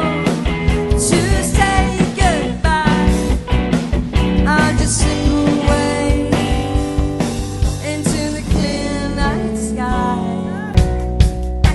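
Rock music with a steady drum-kit beat, guitar and a sliding, bending melody line.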